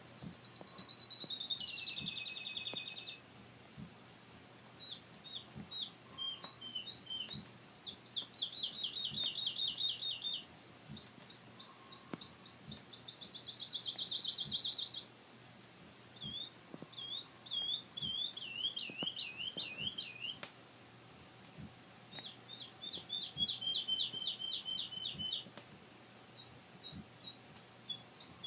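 Recorded songbird song played from a vinyl record: a series of rapid trilled and warbled phrases, high-pitched, each lasting a second or two with short pauses between them, with faint surface clicks underneath.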